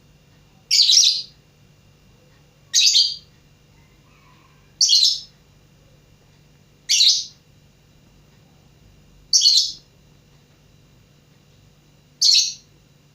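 Lovebird giving six short, shrill calls, one about every two seconds.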